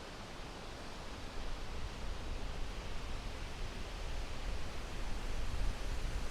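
Wind rustling the leaves of a vine-covered tree as a steady hiss, with a low rumble that swells and gusts from about a second and a half in.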